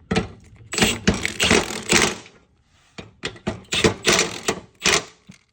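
Impact wrench hammering in two bursts of about two seconds each, a short gap between them, as it breaks loose the bolts holding a riding mower's deck spindles.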